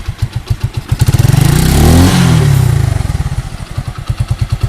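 Motorcycle engine with an exhaust modified to sound like a KTM Duke. It idles in distinct pulses, is revved once from about a second in, peaks near the middle, then drops back to a slow, loping idle.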